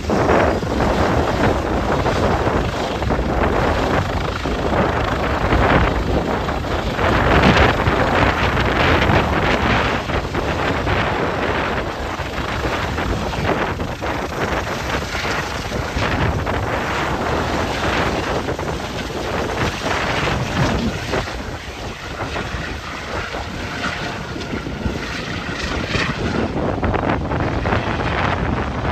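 Strong gusty wind buffeting the microphone, swelling and easing irregularly, in 40-50 mph gusts.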